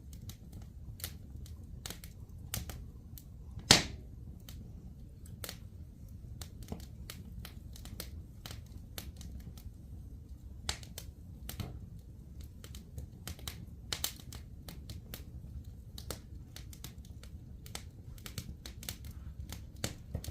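A fire crackling, with irregular sharp pops and snaps, one loud pop about four seconds in and another about fourteen seconds in. A cat purring low and steady underneath.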